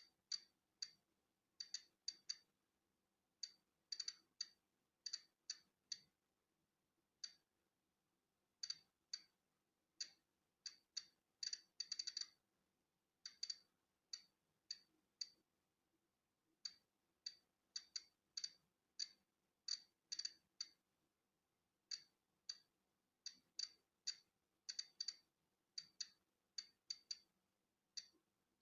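Polon EKO-C digital Geiger counter clicking at irregular intervals, about two sharp, high clicks a second and sometimes several in quick succession. Each click is a detected particle of natural background radiation.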